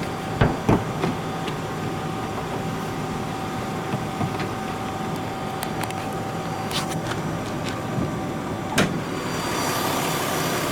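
Idling Nissan Murano 3.5-litre V6 humming steadily while the hood is opened. A few clicks come about half a second to a second in, likely the hood release and latch. A sharp click follows near the end, after which the engine sound is louder and fuller as the hood goes up.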